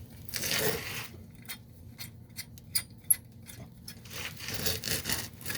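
Thermocouple nut being turned out with a wrench: metal scraping and rubbing about half a second in and again near the end, with scattered light clicks in between.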